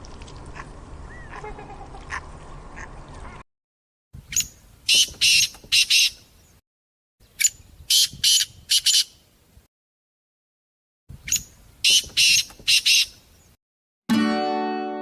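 A duck quacking in runs of about four loud quacks. The same run is heard three times with short silences between. It follows a few seconds of faint background with scattered small calls and clicks, and acoustic guitar music starts near the end.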